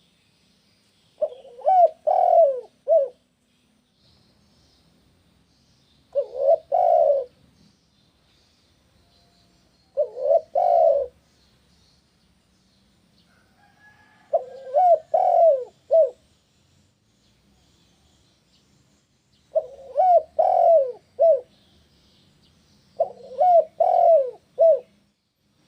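Spotted dove (tekukur) cooing: six phrases of several low coo notes each, repeated about every four seconds. Faint high chirping of small birds runs underneath.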